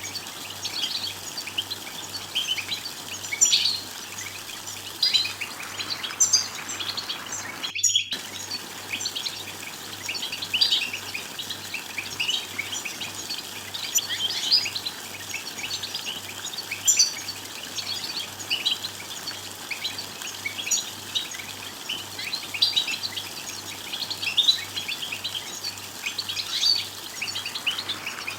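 European goldfinches twittering: a dense, continuous chatter of short, high chirps and trills, breaking off briefly about eight seconds in.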